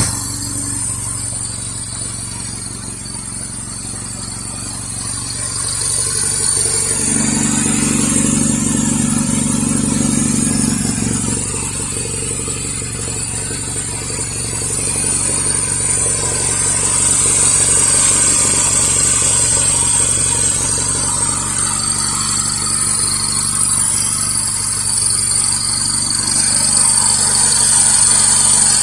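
Honda Z360's small two-cylinder EA engine running steadily at idle, its note picking up briefly between about 7 and 11 seconds in, with a steady high hiss over it.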